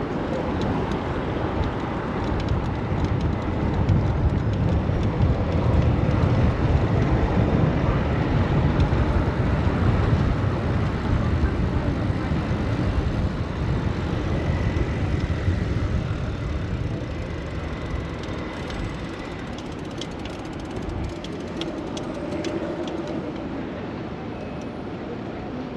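Steady low rumble of city traffic and wind noise heard from a moving bicycle. It swells a few seconds in, then eases off in the last third.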